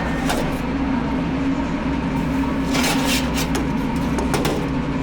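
Steady low machinery hum with a few sharp clicks and knocks of tools against metal, a cluster of them about three seconds in.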